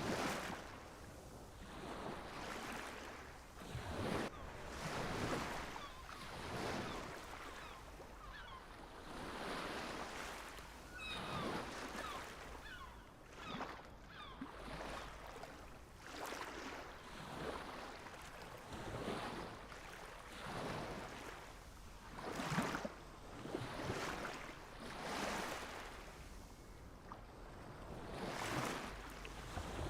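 Small waves washing in and breaking, a swell every one to two seconds. A few faint high chirping notes come near the middle.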